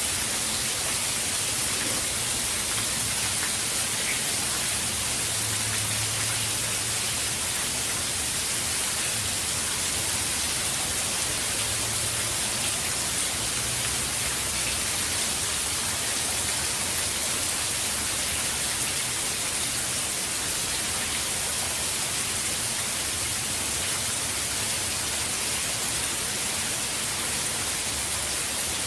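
Steady, even rain falling, with no breaks or distinct events; it is typical of a hurricane's rain bands.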